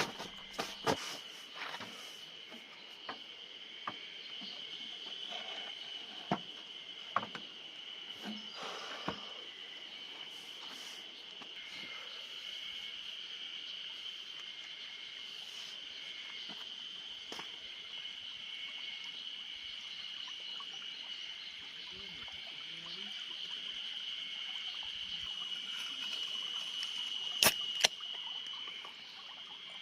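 Insects singing in a steady, unbroken high drone, with scattered sharp clicks and knocks and two louder clicks near the end.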